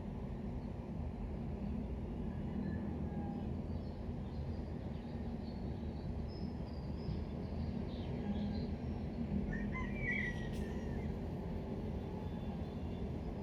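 Steady low background rumble with faint bird chirps scattered over it, and a brief, clearer call about ten seconds in.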